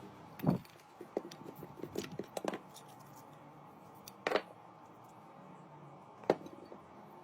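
Electric fan running with a faint steady hum, with a scattered handful of sharp clicks and knocks over it.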